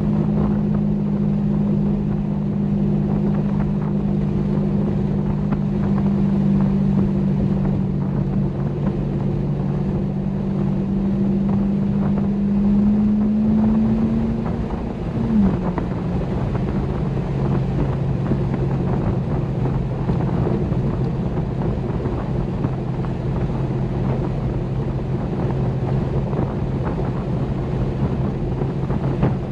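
Corvette C6 Grand Sport's 6.2-litre V8 running under way, with wind and road noise. The engine note climbs slowly, then drops sharply about halfway through and settles lower and steady.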